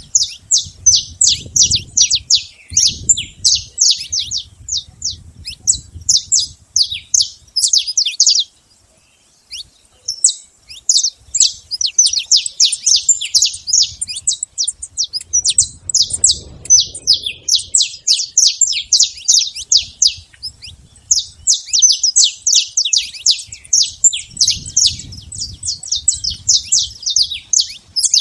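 Saffron finch singing in long runs of rapid, high, sharp notes, with a short break about eight seconds in.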